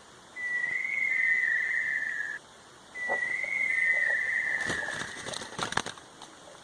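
A long, clear whistle repeated twice, each lasting about two seconds, rising slightly and then sliding down; a few brief knocks or rustles follow near the end.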